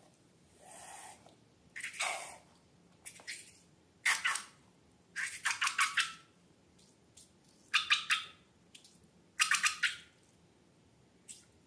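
Rubber balloons and slime being handled: a string of short squeaky, crackly bursts, several of them rapid clusters of little clicks, with brief quiet gaps between.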